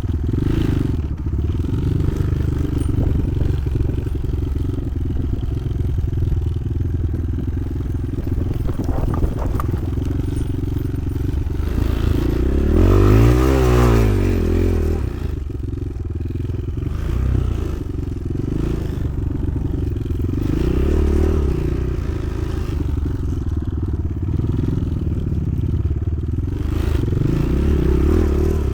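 Motoland XR 300 Lite enduro motorcycle being ridden, its engine note rising and falling with the throttle, with one strong rev up and back down about halfway through and smaller swells later.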